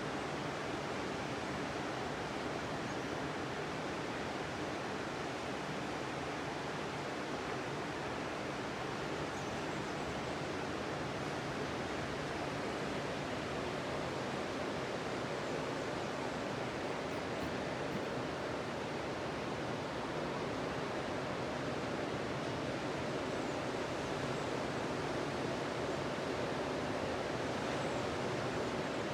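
Sea surf: waves breaking on the beach, a steady wash of noise that swells slightly near the end.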